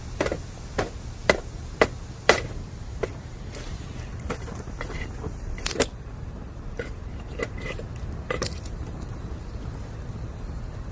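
Bamboo burning in a campfire, crackling with irregular sharp pops, several loud ones close together in the first two seconds and fewer after, over a steady low rumble.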